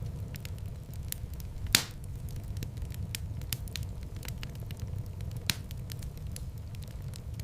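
Fireplace fire crackling over a steady low rumble of flames, with many small clicks, one loud sharp pop about two seconds in and a smaller pop near the end.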